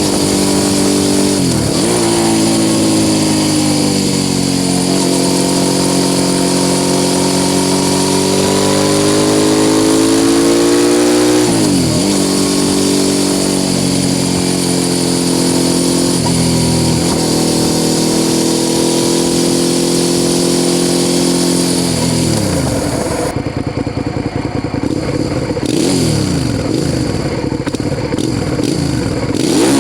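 Suzuki SV650 S V-twin with a Mivv aftermarket exhaust, ridden under way. Engine pitch rises steadily between sudden drops at each gear change. About three quarters through the revs fall, then rise and fall unevenly as the bike slows and shifts down.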